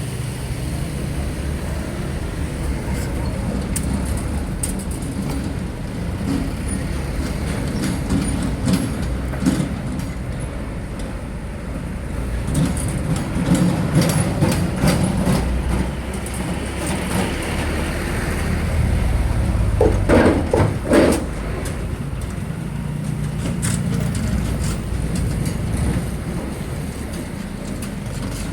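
Heavy road traffic crossing a railway level crossing: trucks and buses go by with a steady low engine and tyre rumble that swells as each passes. About twenty seconds in there are two short pitched sounds.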